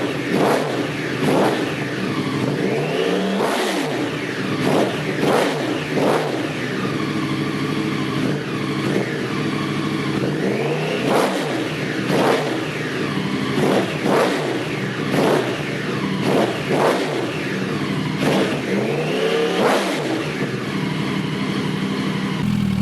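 Yamaha R1 inline-four engine revved in quick, sharp blips over a steady idle, the pitch shooting up and falling back each time, about fifteen times with a short lull in the middle.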